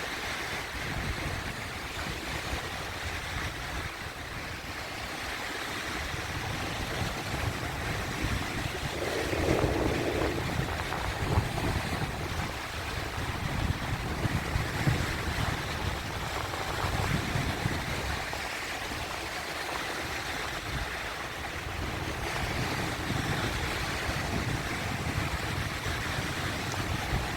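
Sea waves breaking and washing in, a continuous wash that swells louder about a third of the way in and again near the middle.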